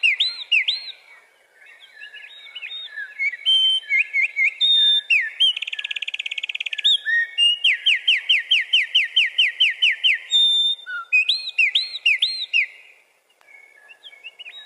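Wren singing its fast, bubbly territorial song: repeated high rising notes, a rapid trill about six seconds in, then a long run of quick repeated notes. The song breaks off briefly near the end and starts again.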